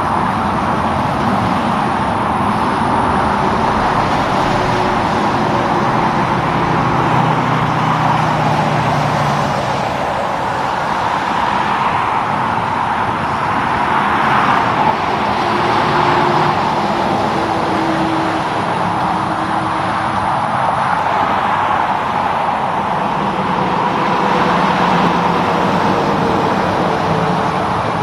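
Steady roadside traffic noise: vehicles passing on a busy road, tyre and engine noise swelling and easing as they go by, with the drone of heavy truck engines now and then.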